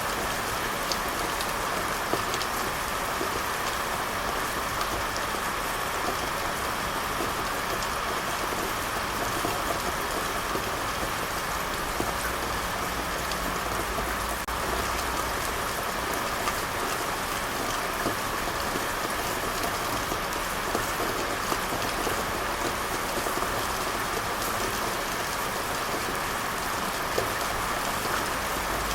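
Steady rain falling, an even hiss of rainfall with scattered individual drops pattering on a surface.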